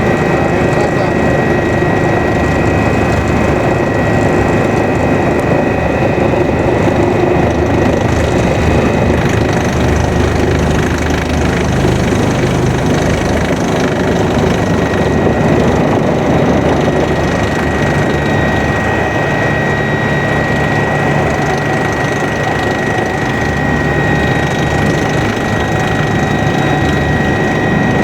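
Kawasaki BK 117 B-2 twin-engine helicopter in flight, heard from inside the cabin: a steady, loud rush of rotor and turbine noise with a high, steady turbine whine over it.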